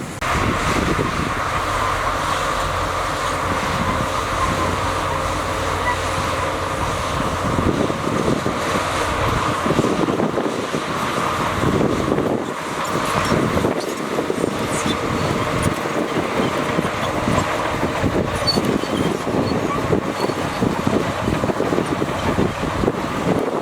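Heavy diesel earthmoving machinery running. The engine holds a steady tone for the first several seconds, then the sound turns rougher and more uneven.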